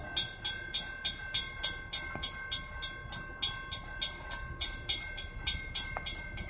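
Railroad crossing bell ringing rapidly and evenly, about three to four strikes a second, over the low rumble of a passing freight train.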